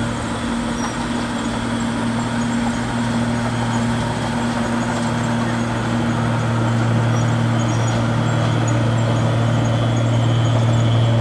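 Bulldozer's diesel engine running steadily with a low drone, growing a little louder through the second half.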